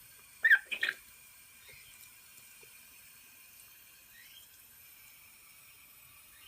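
A bird calling with two short, loud chirps about half a second in, then a faint rising chirp about four seconds in.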